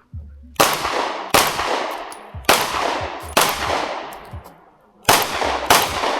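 Six shots from a ported CZ P10C pistol in three quick pairs, each shot trailing off in a long echo.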